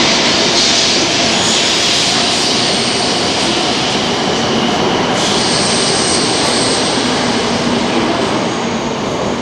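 Shinkansen bullet train moving past the platform: a steady rush of wheels and air with a strong hiss, joined by a thin high whine about halfway through.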